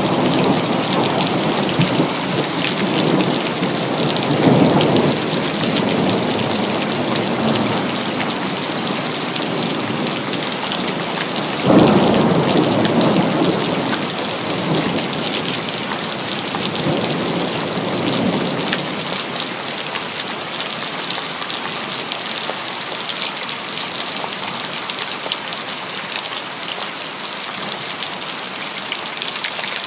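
Steady heavy rain with rolling thunder. About twelve seconds in, a sudden loud thunderclap rumbles away, and in the last third the thunder dies down, leaving only the rain.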